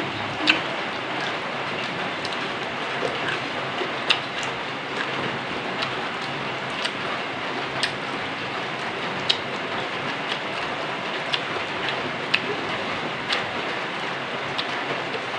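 Chewing of crunchy papaya salad, with sharp clicks every second or two, over a steady hiss.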